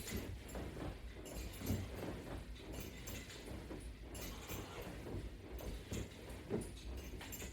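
Faint, irregular soft knocks and rustling from a person doing sit-ups with hand straps on the floor, with two slightly louder knocks about two seconds in and near the end.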